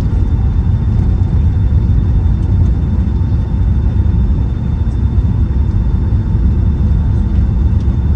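Steady low rumble heard inside the cabin of a Boeing 757-200 taxiing on the ground after landing, with a faint steady whine above it.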